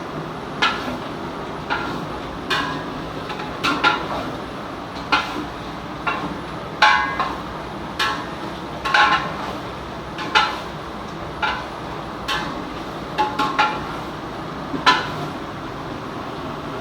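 A spoon knocking and scraping against a cooking pot about once a second while chicken gizzards are stirred and fried, over a steady hiss.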